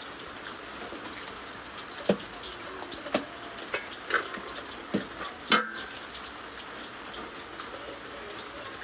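Steady rain, heard as an even hiss, with about six sharp knocks or clicks in the middle stretch, the last of them the loudest.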